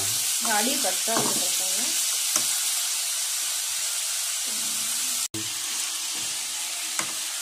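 Country chicken pieces, dry red chillies and onions sizzling in oil in a metal kadai over a medium flame, stirred with a steel ladle. The sizzle is a steady hiss, with a couple of light ladle clicks against the pan.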